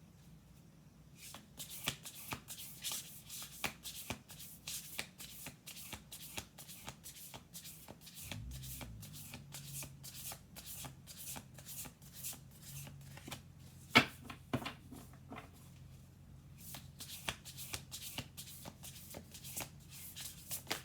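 A deck of oracle cards being shuffled by hand: a quick, continuous run of soft card flicks and riffles, with one sharper snap a little past the middle and a brief lull near the end.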